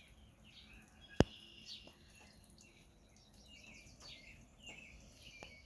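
Small birds chirping in short, scattered calls, with one sharp click about a second in.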